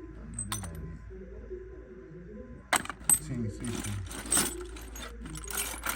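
Metal hand tools clinking and rattling: sharp clicks a little under three seconds in, then a few jangling clatters of steel sockets and a ratchet being handled, over a low unintelligible background voice.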